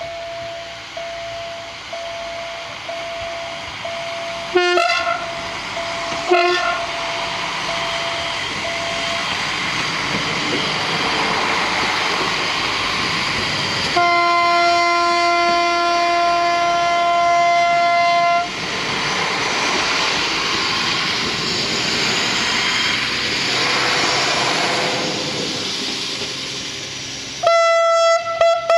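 Bombardier EDE-1 electronic level-crossing bell beeping about once a second while an SA132 diesel railcar train approaches and gives two short horn blasts. The train then passes over the crossing with a rising rumble, sounding one long horn blast of about four seconds, and another horn blast starts near the end.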